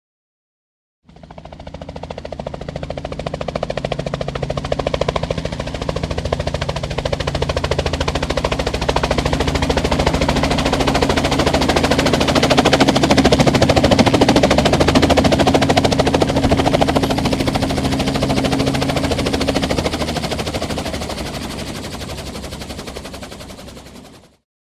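A long continuous rattle of very fast repeated sharp pulses over a low drone. It fades in about a second in, is loudest midway and fades out near the end.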